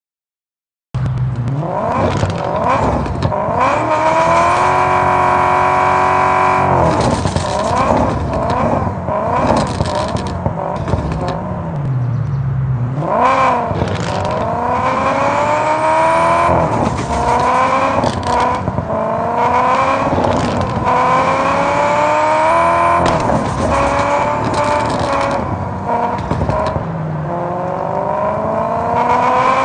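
Car engine and exhaust revving hard, the pitch rising and falling again and again, with a held high rev and several long climbs through the revs like accelerating runs. It starts about a second in.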